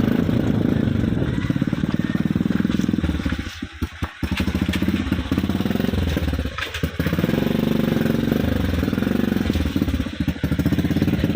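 Motorcycle engine running steadily, its sound dropping away briefly three times: once about four seconds in, again around seven seconds, and once more near the end.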